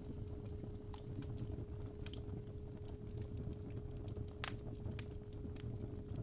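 Fireplace fire crackling, with irregular sharp pops over a low steady rumble, and a steady 417 Hz tone held underneath; one pop about four and a half seconds in is the loudest.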